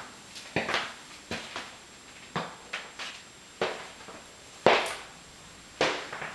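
A series of sharp, irregular knocks or clicks, roughly one to two a second, each with a short echo.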